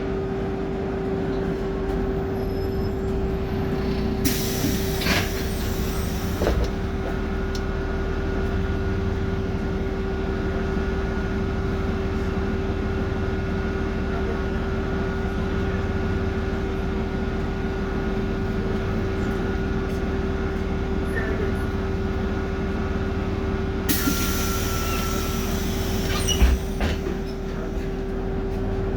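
BMC Procity city bus's Cummins diesel engine running, heard from inside the bus, with a steady whine over the rumble. Two short hisses of air come about four seconds in and again near the end, and a single knock follows the second one.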